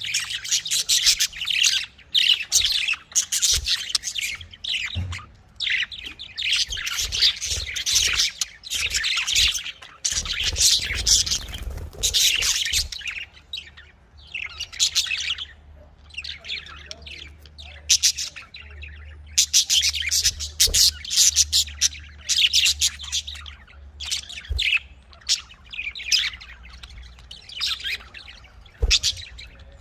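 Budgerigars chattering: a dense, continuous run of short high chirps and squawks, broken by brief pauses.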